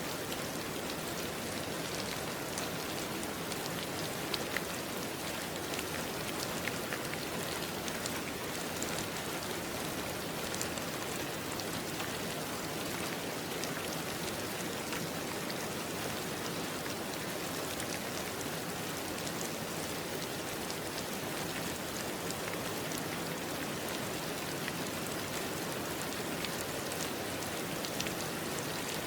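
Steady rain falling, an even wash of sound with scattered individual drops ticking through it.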